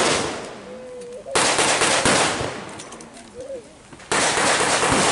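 Bursts of blank gunfire in a mock battle re-enactment. A burst fades away early on, another starts about a second and a half in with a second volley just after, and a third begins about four seconds in.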